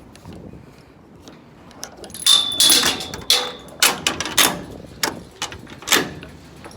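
About two seconds of quiet, then a string of sharp knocks and clatters, with a brief high squeal just after the first of them.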